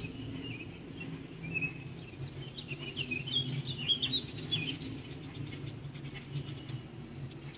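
A songbird singing a quick run of short high chirps from about two seconds in, over a steady low hum.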